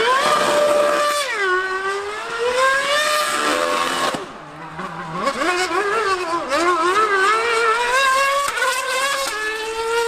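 High-revving racing engine at full throttle on a circuit, its pitch climbing through each gear and dropping sharply at every shift. The sound fades briefly about four seconds in, then picks up again.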